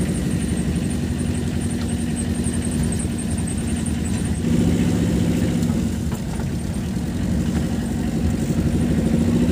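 A car's engine running at low speed, heard from inside the cabin while driving; it gets a little louder about four and a half seconds in.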